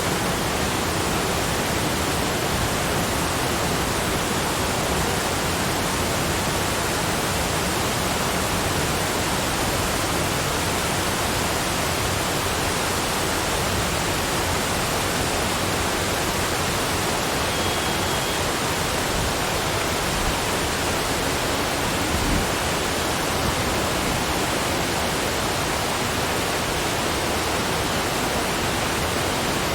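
Steady, even rushing noise that does not change, of the kind heard from falling water. A brief faint high tone comes about 18 seconds in, and a soft low thump about 22 seconds in.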